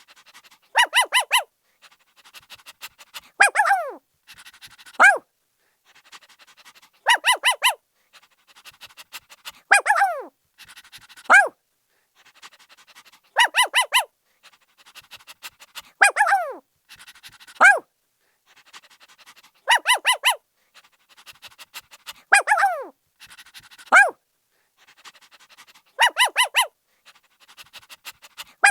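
Puppy barking: quick runs of three or four high yips, a yelp that slides down in pitch, and single short barks, the same sequence repeating about every six seconds.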